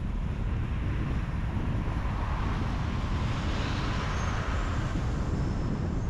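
Steady road and tyre noise of a car driving on a highway, with a deep rumble throughout. A hissing swell rises about two seconds in and fades again about three seconds later.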